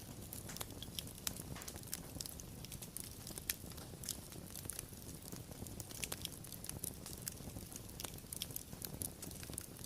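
Wood fire crackling and popping, with irregular sharp snaps over a steady low rumble of the burning.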